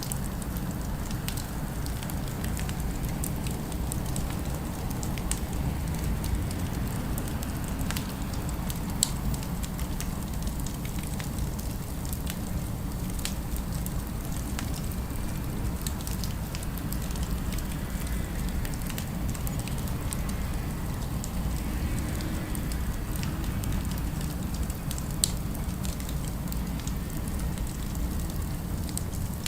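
Steady crackling of a fire, a low rumble under many small scattered crackles, with two sharper pops about nine seconds in and near the end.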